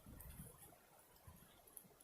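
Near silence, with a few soft low thumps and scattered faint ticks.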